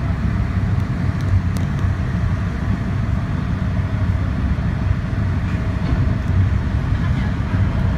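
Semi-submersible sightseeing boat's engine running, a steady low drone heard from inside the hull's underwater viewing cabin.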